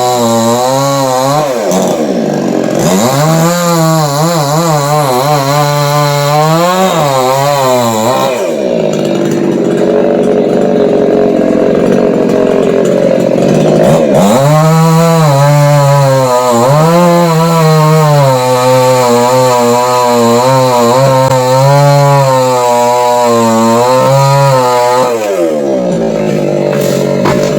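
Two-stroke chainsaw cutting dried coconut palm wood. The engine pitch rises and dips repeatedly as the chain bites and frees up, with a steadier stretch of cutting in the middle, then falls away near the end.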